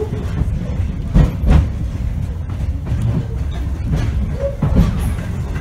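Strasburg Railroad passenger coach rolling along the track, heard from inside the car: a steady low rumble with a few sharp knocks from the wheels and couplings.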